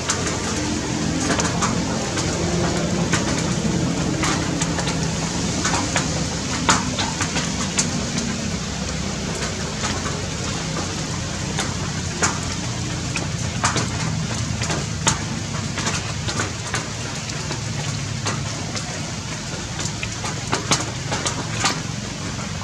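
Rain falling on tree leaves: a steady hiss with irregular sharp drips. A low rumble runs underneath, strongest for the first several seconds and fading after.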